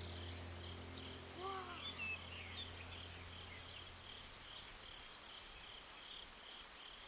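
Woodland ambience: an insect chirps in a steady pulse about two to three times a second over a high hiss, with a few short bird calls between one and two seconds in. A steady low hum fades away about four seconds in.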